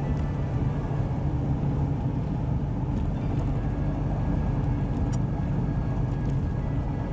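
Steady motor-vehicle rumble: a constant low engine drone with noise beneath it, unchanging throughout.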